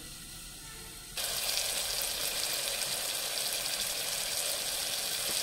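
Onion, tomato and fenugreek masala frying in oil in a pressure cooker, sizzling steadily. It is quieter for about the first second, then a louder, even sizzle starts abruptly.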